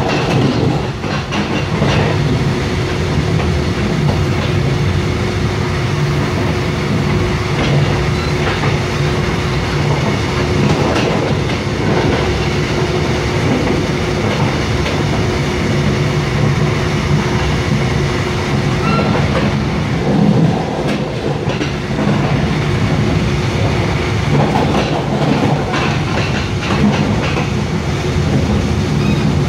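Mugunghwa-ho passenger train heard from inside a coach while running: a steady rumble of wheels on rails with a faint steady hum and scattered clicks from the track.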